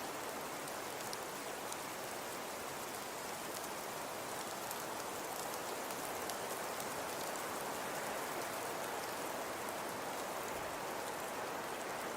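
Fireplace crackling: a steady soft hiss with many small, quick pops and ticks.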